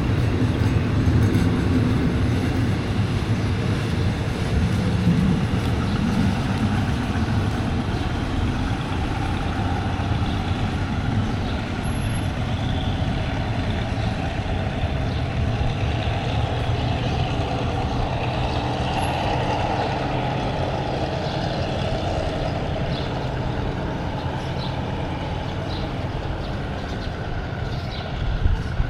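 Diesel train running with a steady low rumble that slowly grows fainter.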